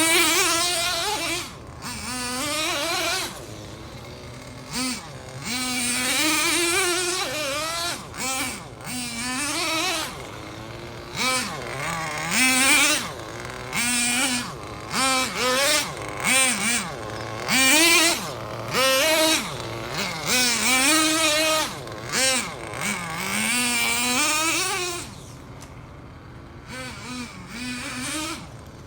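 Radio-controlled car's motor whining in repeated bursts as it spins donuts, the pitch rising and falling as it speeds up and slows, with short pauses between runs.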